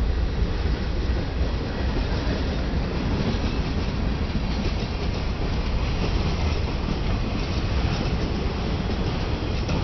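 Freight train rolling past on the rails, a steady heavy rumble.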